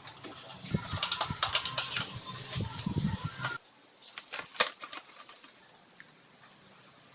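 A quick run of clicks and light knocks. The background drops away suddenly a little past halfway, and a few sharper clicks follow.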